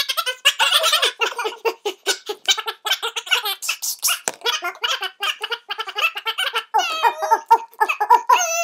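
High-pitched giggling laughter in rapid, choppy bursts. A long, held, wavering voice-like tone starts just before the end.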